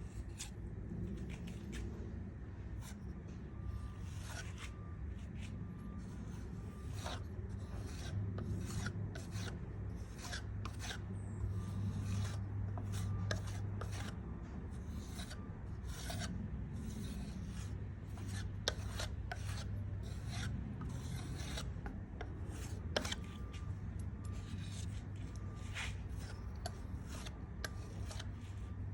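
Putty knife scraping and spreading wood putty into a patched spot on wood, in many short strokes over a steady low hum.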